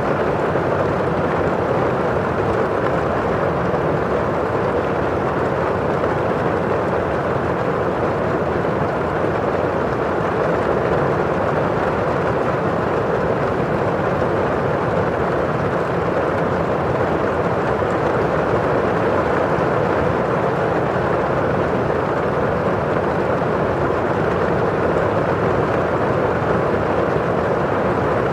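Steady rain on a windowpane, with the rush of rain falling outside: an even, unbroken hiss that stays at one level throughout.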